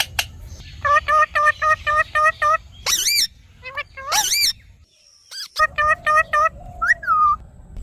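Parrot calling: two runs of short, evenly repeated calls at about five a second, with a couple of louder squawks between them that rise and fall in pitch. Near the end come two calls that fall in pitch.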